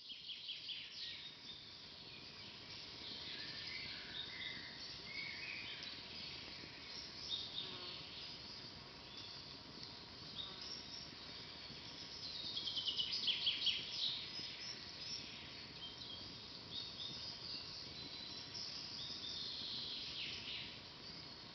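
Forest birdsong: several small birds singing and trilling over a faint steady hiss. The loudest part is a fast run of repeated notes a little past halfway through.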